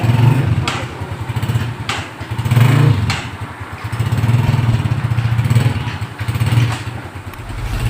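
Honda CG125's single-cylinder four-stroke engine running after its service, the revs rising and falling several times, with sharp clicks about once a second.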